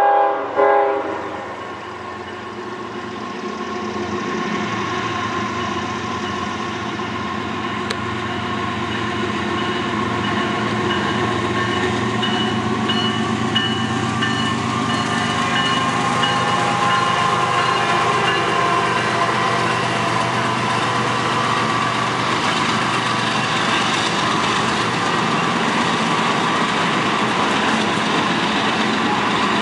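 CSX freight train led by two GE diesel locomotives: a short horn note at the very start, then the locomotives' engines growing louder over the first ten seconds or so as they approach and pass, followed by the steady rolling rumble of the loaded trash container cars going by.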